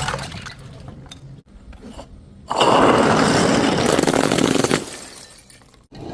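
Glass bottles smashing: a sharp break right at the start with shards tinkling after it, then a louder, longer stretch of breaking and crunching glass from about two and a half seconds in, fading out near five seconds.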